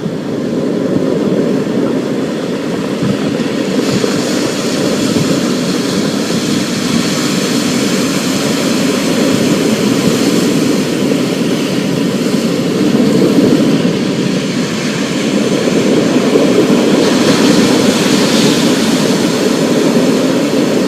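Thunderstorm recording: a continuous low rumble under the steady hiss of rain. The hiss swells about four seconds in and again near the end.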